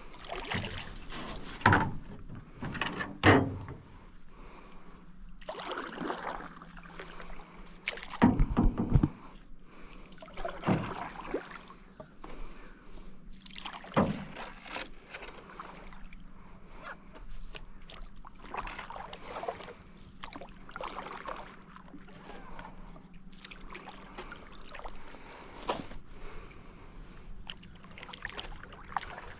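Canoe being paddled: repeated swishing paddle strokes through water, with a few loud knocks, the loudest about 8 to 9 seconds in. A faint steady low hum runs under it through the middle.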